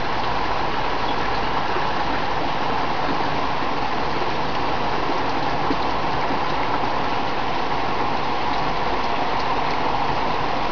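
Torrential rain pouring down in a thunderstorm: a loud, steady, unbroken hiss.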